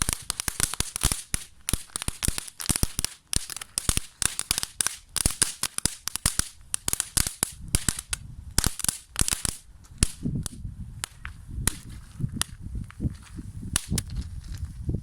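A small consumer firework burning with a dense run of sharp crackling pops. After about ten seconds the crackle thins to scattered single pops as it burns out.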